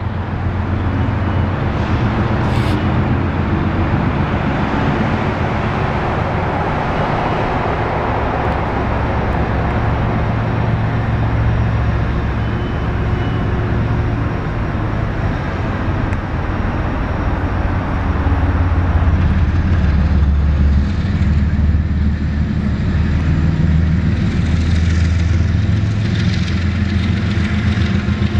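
CSX freight train passing: a steady low drone of diesel locomotive engines over a continuous rumble of the train rolling by.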